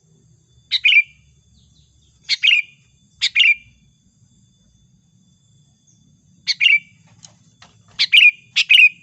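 Sooty-headed bulbul (kutilang) giving six short, bright calls in uneven groups, each call dropping quickly in pitch. It is a lure call, which the uploader presents as a female calling a male.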